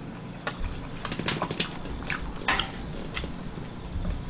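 A person chewing food close to the microphone: wet mouth smacks and clicks, irregular, with a cluster of sharp smacks between about one and two and a half seconds in.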